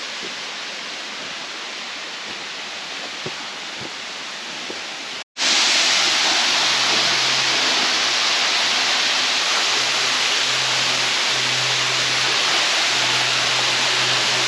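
Steady rush of water, a stream or waterfall. It cuts off briefly about five seconds in and comes back louder and fuller, like a closer, heavier torrent.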